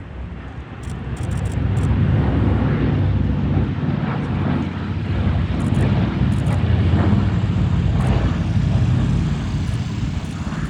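Douglas C-47's twin radial engines and propellers droning as it flies past. The sound swells about a second and a half in, then holds steady.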